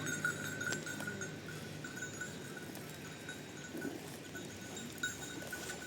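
Livestock bells clinking irregularly: a small metal bell's ringing note comes and goes in uneven pulses, with a few sharp clinks.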